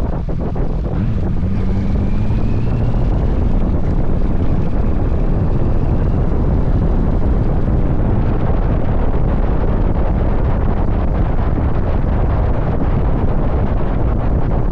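Wind rumbling hard on the microphone of a motorcycle at highway speed, with the engine and road noise underneath. A faint rising tone comes through briefly about a second and a half in.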